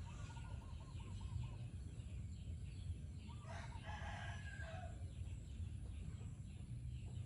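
A rooster crowing once, faintly, about three and a half seconds in, after a few faint bird calls in the first second, over a steady low hum.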